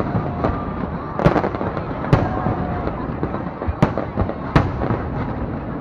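Aerial fireworks going off: a run of sharp bangs at irregular intervals, about eight or nine in all, each trailing off in a short echo.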